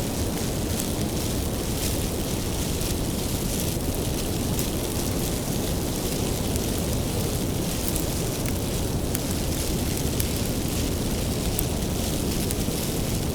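Wood fire burning with a steady low roar and scattered sharp crackles and pops.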